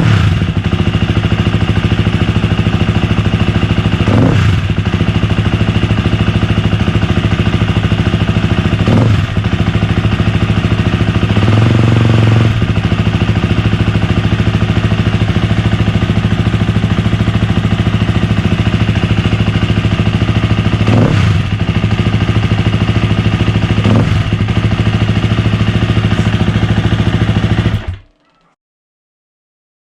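KTM 250 EXC-F single-cylinder four-stroke dirt bike engine running through its stock slip-on muffler, idling with a few short throttle blips. The sound cuts off suddenly about two seconds before the end.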